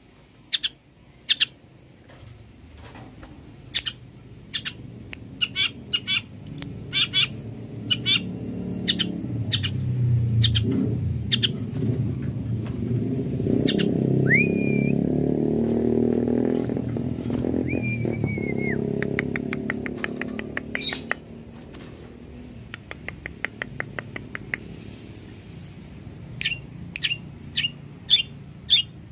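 Long-tailed shrike singing a run of short, sharp, repeated notes, with two longer whistled notes near the middle. A low rumble swells up from about eight seconds in and fades out around twenty.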